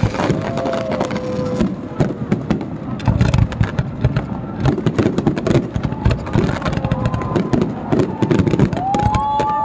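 Fireworks display: many aerial shells bursting and crackling in quick, uneven succession.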